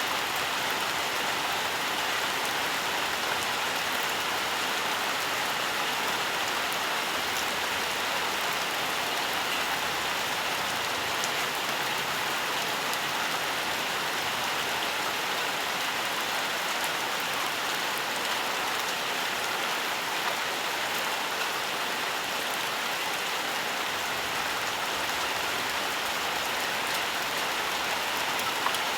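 Steady, even rainfall, drops pattering on surfaces with faint scattered drip ticks.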